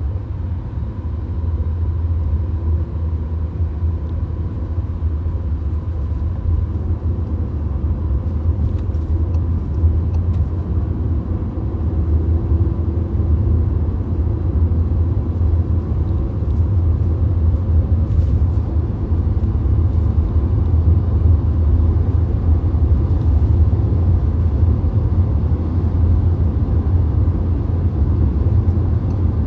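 Steady road noise of a VW Golf cruising on the motorway, heard from inside the car: a constant low rumble of tyres and engine.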